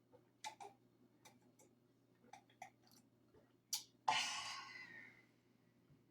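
Soft mouth clicks and gulps while drinking soda, then a breathy exhale about four seconds in that fades over about a second.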